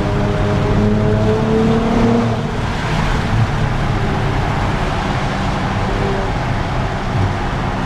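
Nissan Z Nismo's twin-turbo V6 running under way, its engine note climbing slightly for about two seconds and then settling into a steady drone with road noise.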